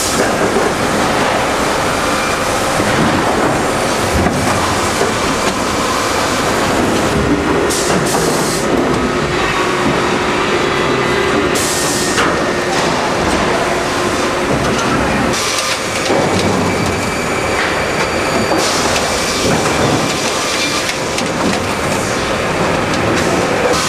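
Sawmill line machinery processing timber into pallet boards, running continuously with loud, steady industrial noise.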